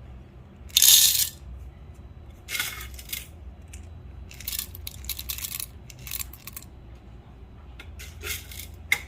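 Whole coffee beans poured in several short batches into a container on a scale, rattling and clicking as they land; the first pour, about a second in, is the loudest, followed by smaller top-up pours to reach 20 grams.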